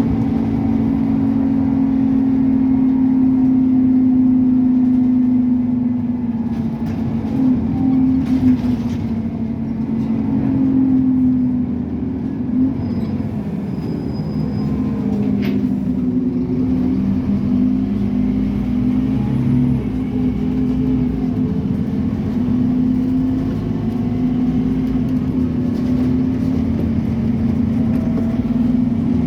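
Scania N270UD OmniCity double-decker bus heard from on board, its 9-litre five-cylinder diesel engine pulling hard under load. The engine note holds steady, then falls and climbs again around the middle as the bus slows and accelerates. A few brief knocks and rattles sound over it.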